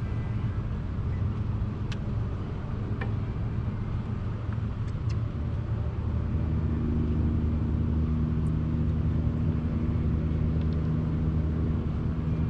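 Engine running steadily, its note changing about six seconds in.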